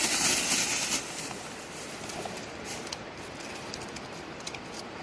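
Rushing river water as a steady hiss, with a louder burst of hissing for about the first second before it settles.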